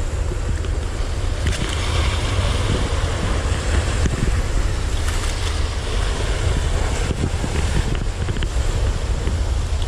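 Wind buffeting the microphone as a steady low rumble over the continuous wash of rough sea surf, with a few faint ticks.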